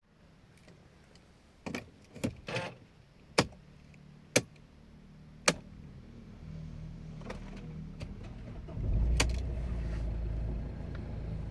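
Several sharp clicks and clunks, then a Mercedes-Benz E-Class engine starts about nine seconds in: a short loud low rumble as it fires, settling to a steady idle near the end.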